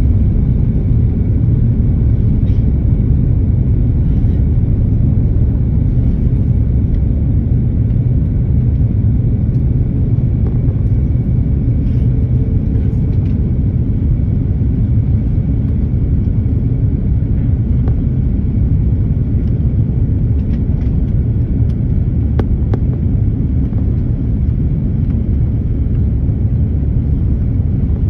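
Airliner landing noise: a steady low rumble with no rise or fall.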